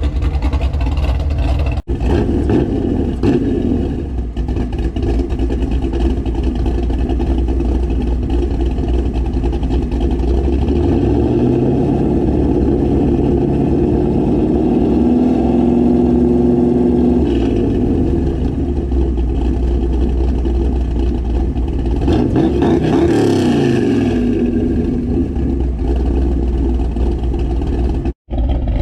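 Shelby Dakota's 5.2-litre V8 running through its new aftermarket mufflers, rising in pitch about a third of the way in, holding, then easing back down. The sound breaks off briefly near the start and near the end.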